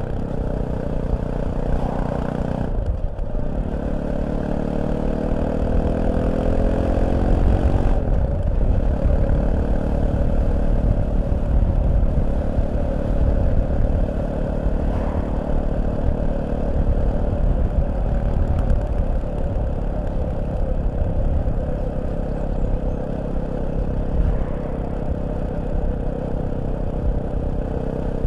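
Fantic Caballero 500 single-cylinder motorcycle engine running under way. Its pitch climbs for several seconds as the bike accelerates, drops sharply about eight seconds in at a gear change, then holds fairly steady.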